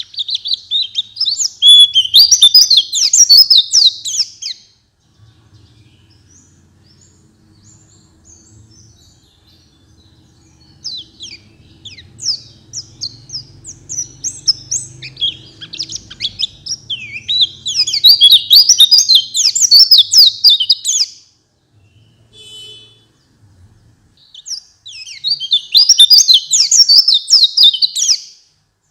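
White-eye (pleci) singing a rapid, high twittering song in three long bouts, with short pauses between them.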